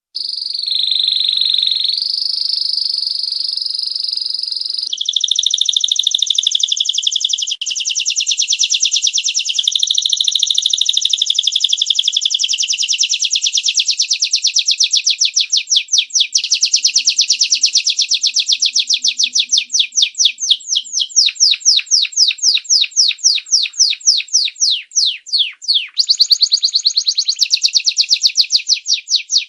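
A domestic canary singing a long, unbroken, high-pitched song. It opens with smooth held notes, runs into very fast rolling trills, slows to separately struck repeated notes, and breaks into a fast trill again near the end.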